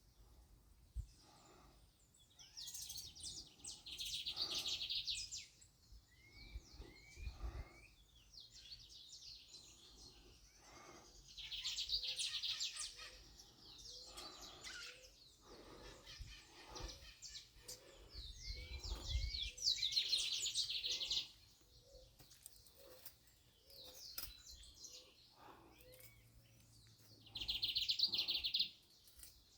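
Birds singing: a rapid, high twittering song bursts out about every eight seconds, four times, with short rising call notes in between.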